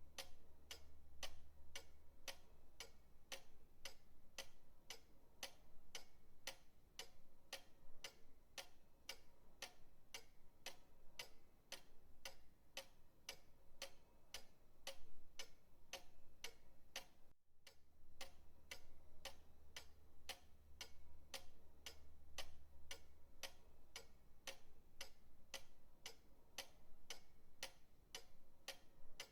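Pendulum clock ticking: faint, evenly spaced sharp ticks at about two to three a second. The sound cuts out for a split second about halfway through, then resumes.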